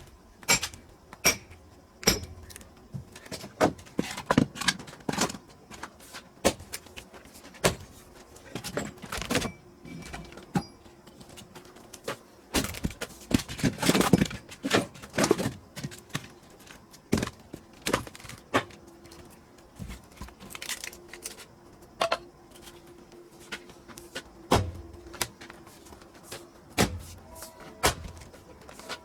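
Pine firewood being split and handled: a long run of sharp, irregular wooden knocks and clatters, busiest about halfway through.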